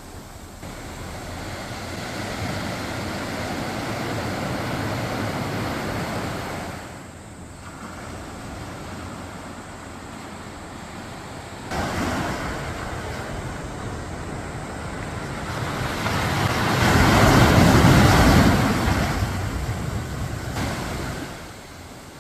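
Gentle waves washing onto a sandy beach in slow surges. One swell builds and fades over the first six or seven seconds, another comes in suddenly about twelve seconds in, and the loudest rushes up around seventeen to nineteen seconds before drawing back.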